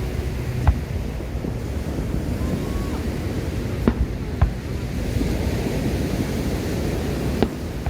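Fireworks shells bursting: four sharp bangs, one about a second in, two close together around the middle and one near the end, over a steady low roar of surf and wind on the microphone.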